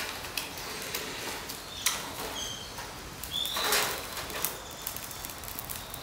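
A few short, high bird chirps, one of them rising, in the middle, over faint rustling and scattered clicks from dry twigs being handled as kindling is lit with a lighter.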